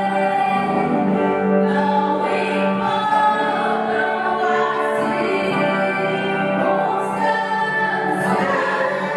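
A choir singing a worship song in long, held notes.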